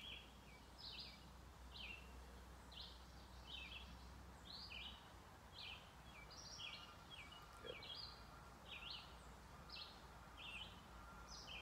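Faint birdsong: a small bird repeating short high chirps, about two a second.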